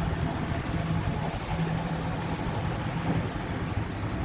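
Wind buffeting the microphone outdoors: a steady, even low rumble.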